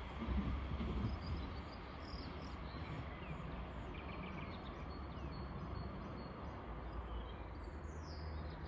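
Birds chirping and calling in short high notes over a steady low hum.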